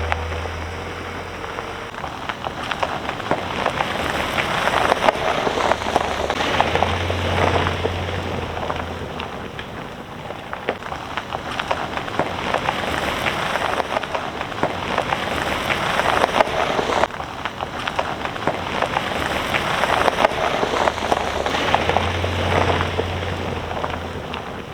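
Tyres crunching steadily over an unpaved gravel road: a dense crackle that swells and fades every few seconds, with a low rumble coming and going.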